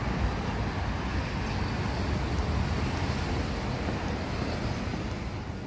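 Steady road traffic noise with low rumbling wind on the microphone.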